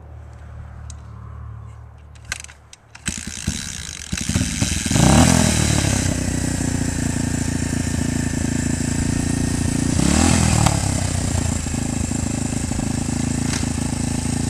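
Dirt bike engine ticking over quietly, with a few clicks. About three seconds in it gets much louder and keeps running. It revs up and back down twice, once about five seconds in and again about ten seconds in.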